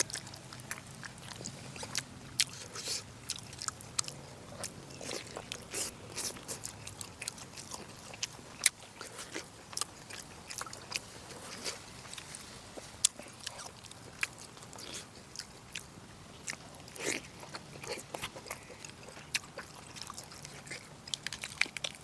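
A person chewing and biting food close to the microphone: many short, sharp wet clicks and smacks at an irregular pace.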